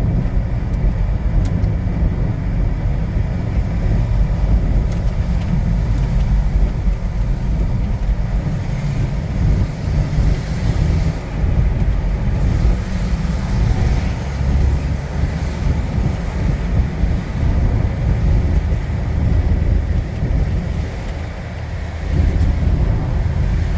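Strong gusts of wind buffeting the microphone: a loud, uneven low rumble that rises and falls with the gusts.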